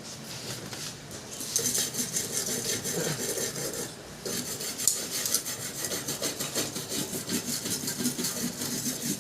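Rapid back-and-forth scraping of a hand tool against a part of a gas cooking stove, starting about one and a half seconds in with a short break near the middle. It is a repair on a burner whose gas flame had gone weak.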